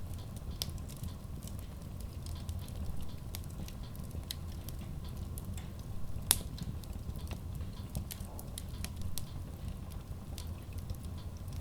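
Logs burning in a Kratki Koza K6 stove-fireplace: a steady low rumble of the fire with frequent small crackles, and one sharp, louder pop about six seconds in.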